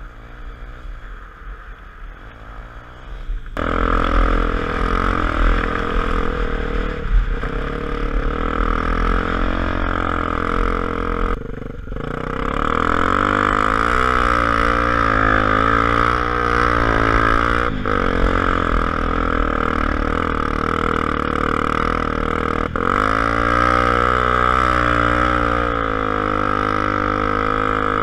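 Honda XR250 Tornado's single-cylinder four-stroke engine running under way, getting louder about three seconds in. Its note drops briefly a few times and then climbs again, as with gear changes while accelerating.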